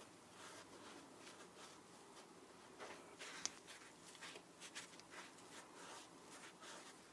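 Faint, irregular scraping and rustling strokes of hands at work, with one sharp click about three and a half seconds in.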